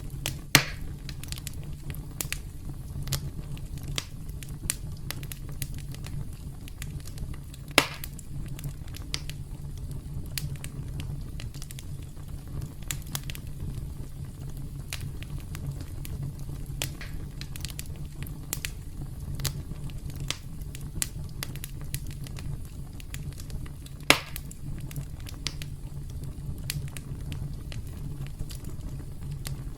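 Campfire burning and crackling: a steady low rumble under constant small crackles, with three sharp louder pops, just after the start, about eight seconds in and about 24 seconds in.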